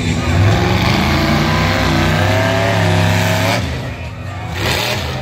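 Monster truck engine revving hard, its pitch swinging up and down, easing off about four seconds in and then picking up again.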